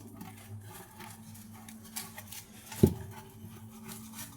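Quiet handling of metal scrap parts on a workbench: small rubs and clinks, with one sharp knock a little under three seconds in, over a faint steady hum.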